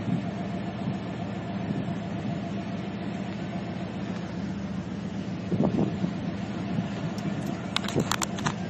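Steady low engine hum, like a vehicle idling, with a few sharp clicks about eight seconds in.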